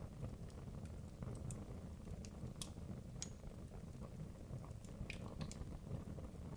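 Wood logs burning in a fireplace: irregular sharp crackles and pops over a low, steady rumble of the fire.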